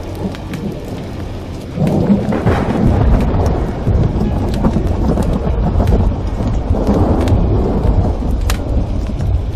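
Thunder rumble over steady heavy rain: the rumble starts about two seconds in and rolls on in swells almost to the end. Sharp fireplace crackles sound now and then throughout.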